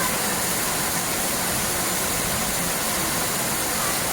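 Steady rush of falling water, an even noise with no breaks.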